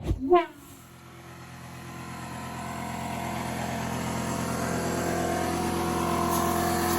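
Sprayed starting fluid going up with a loud whump and a fast falling whoosh as it is lit, in what is likely a fire bead-seating of a truck tire. This is followed by a steady machine hum that grows louder over several seconds.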